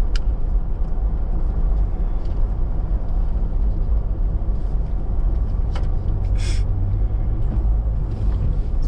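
Steady low rumble of a Toyota 4x4 driving, engine and tyre noise heard from inside the cab. There are a couple of brief clicks and a short hiss about six and a half seconds in.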